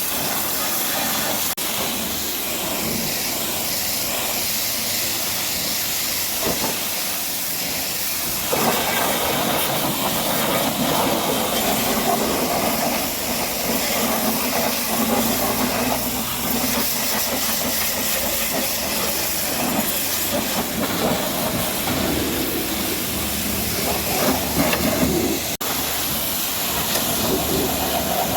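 High-pressure washer spraying water onto a truck's dirty bodywork, a steady hiss of the jet. The sound grows fuller about eight seconds in and shifts as the spray moves over the surface.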